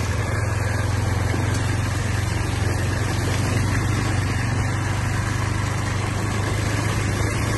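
Dirt bike engine running at a steady, unchanging note while the bike is ridden slowly along a rough, wet dirt track.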